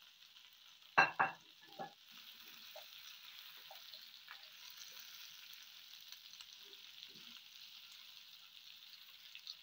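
Onions and bell peppers frying in oil and tomato paste in a pan, a quiet steady sizzle with faint scraping and clicks as they are stirred with a silicone spatula. Two sharp knocks about a second in.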